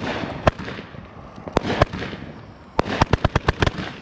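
'Gunfighter from Hell' aerial fireworks bursting overhead: a few separate sharp bangs over the first two seconds, then a quick run of about nine cracks in under a second near the end.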